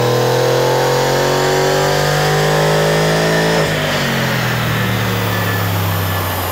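Holden Commodore's 6.2-litre LS3 V8, fitted with a VCM532 performance camshaft, pulling with revs climbing steadily. About three and a half seconds in, the automatic gearbox shifts up: the pitch drops suddenly, then slowly eases down.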